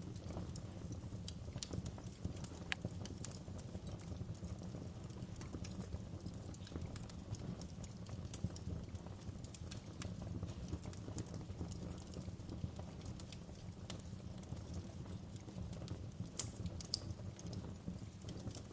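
Wood fire crackling and popping, with irregular sharp snaps over a steady low rumble of the flames.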